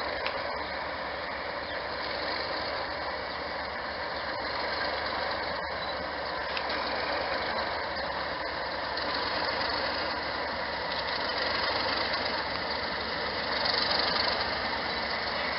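Diesel locomotive engine running steadily, with a dense mechanical clatter that grows a little louder near the end.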